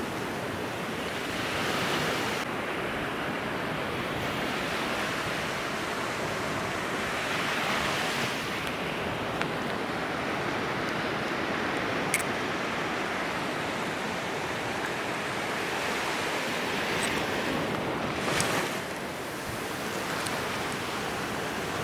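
Ocean surf washing up on a sandy beach: a steady rush that swells every few seconds as waves break. A single sharp click sounds about halfway through.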